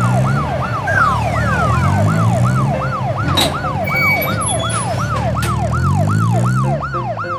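Police siren sound effect yelping rapidly, about three or four falling sweeps a second, over an engine revving up and down.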